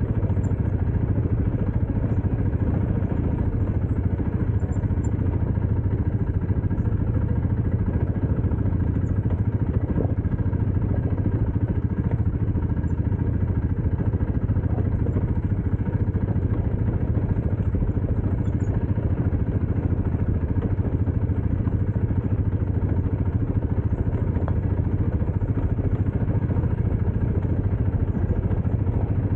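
Dirt bike engine running at a steady pace, with no marked revving up or down.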